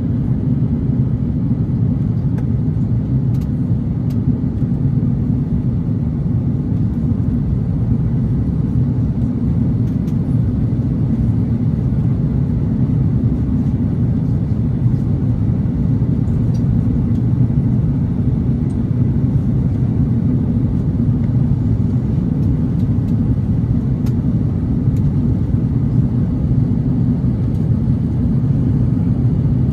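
Cabin noise inside an Airbus A330-900neo in flight: a steady low rumble of its Rolls-Royce Trent 7000 engines and rushing air, unchanging throughout.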